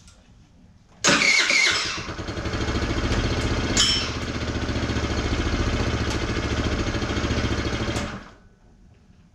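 Newly installed GY6 50cc four-stroke single-cylinder scooter engine started for the first time: it catches about a second in, runs steadily for about seven seconds, then stops.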